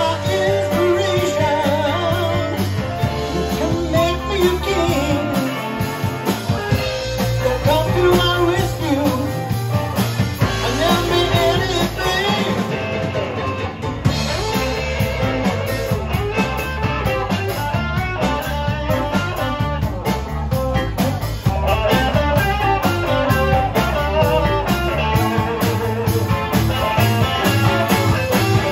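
Rock band music: electric guitar over bass and drums, with a melodic lead line, like an instrumental break in a song.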